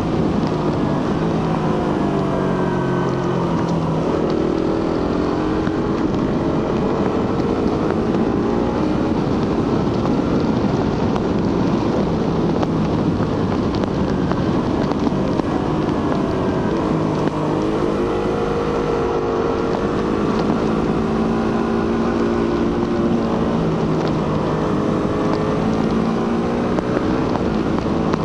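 Suzuki GSX-R150's single-cylinder 150 cc engine through its stock exhaust, under way on the road. The engine note rises and falls several times as the throttle and gears change, over a steady rush of wind.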